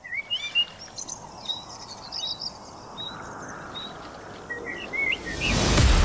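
Small birds chirping and calling over a steady background hiss. About five seconds in, a rising whoosh swells up and music begins.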